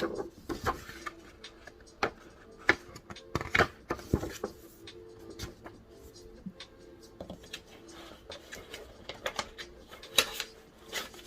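Irregular small clicks and knocks of objects being handled and set down at a desk, a dozen or more, with faint steady background tones underneath.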